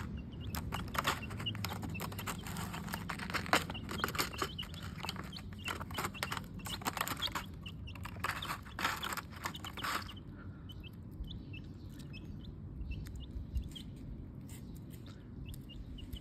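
Domestic chicks pecking at worms: a dense run of quick tapping pecks for about the first ten seconds, with short chick peeps. After that the pecking thins out and scattered peeps remain.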